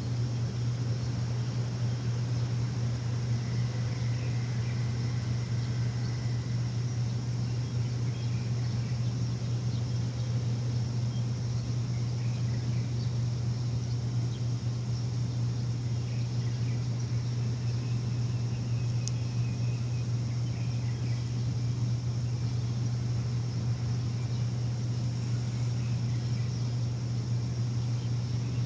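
A machine gives a steady low hum that holds at one level throughout, with a few faint bird chirps now and then above it.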